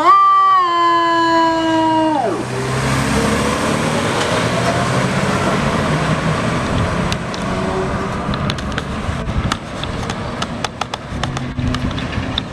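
Fire truck's EQ electronic siren briefly rising, then winding down and dropping off sharply about two seconds in. After it, the truck's engine and road noise run on steadily, with scattered clicks in the second half.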